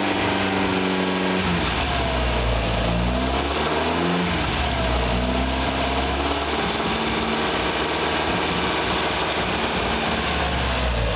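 Honda Prelude engine with a loud exhaust, held at raised revs, dropping back, revved up again about three seconds in, then settling about four seconds in to a steady lower speed.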